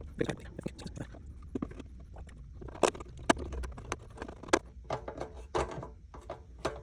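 Irregular clicks and knocks of small parts being handled and fitted together while a motorcycle fuel pump assembly is reassembled by hand, with the sharpest clicks about three and four and a half seconds in.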